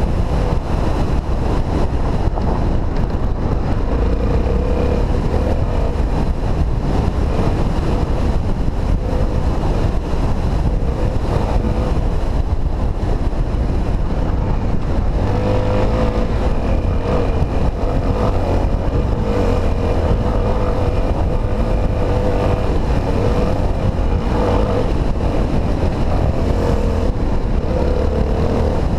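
Honda XR250 Tornado's single-cylinder four-stroke engine running under a trail ride, its note coming and going with the throttle over a steady low rumble.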